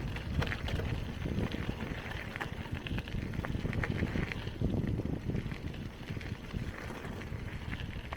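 Bicycle riding along a forest track: tyres rolling over the rough ground, with wind rumbling on the microphone and frequent rattling clicks from the bike.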